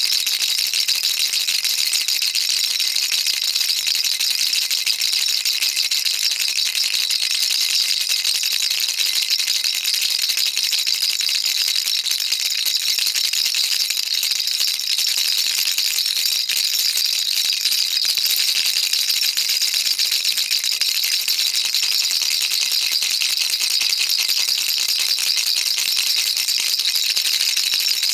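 Baby rattle shaken without a break: a dense, steady, high-pitched clatter with no pauses and little low end.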